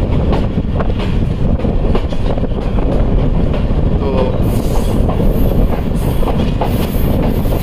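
Passenger train running along the track, heard from an open coach doorway: a heavy rumble of wheels on rail with rapid clicks over the rail joints. A thin high squeal comes in about halfway.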